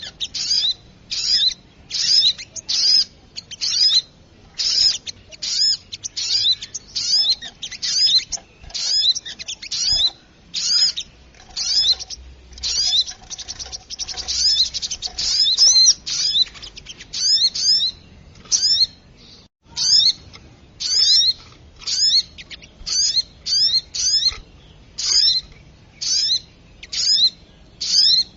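Spiderhunter (sogok ontong) calls played as a bird lure: short bursts of sharp, high, quavering notes repeated about one to two times a second, with one brief gap about two-thirds through.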